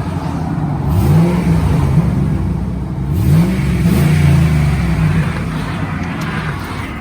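2007 Jeep Grand Cherokee engine on its stock exhaust, revved twice: the pitch sweeps up quickly, holds, then eases back down and fades near the end.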